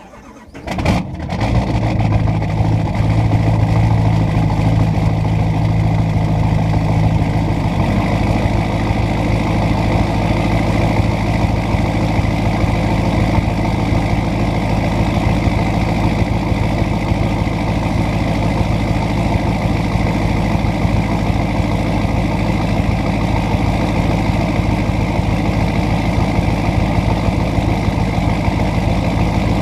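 2011 Duramax LML 6.6-litre V8 turbo-diesel with a 5-inch straight-pipe exhaust, cold started: it cranks briefly, fires about a second in, then idles steadily and loudly. Its low drone eases a little about eight seconds in as the cold idle settles.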